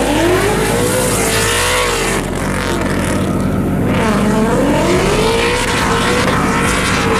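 Car engine revving, its pitch climbing and falling several times over a steady background of other engine noise.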